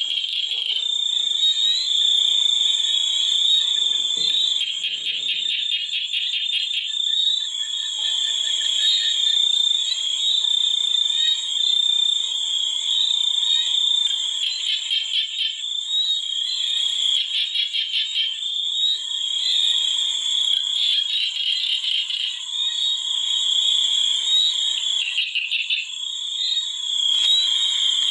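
Chorus of many frogs calling together, a dense, continuous high trilling that swells and eases every few seconds.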